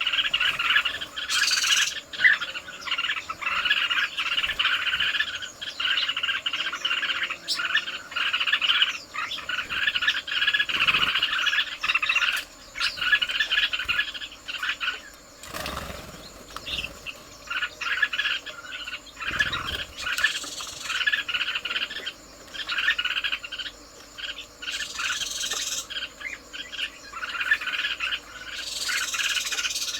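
Dense natural chorus of chirping birds and insects, coming and going in short pulses, with a few brighter, higher calls breaking through now and then.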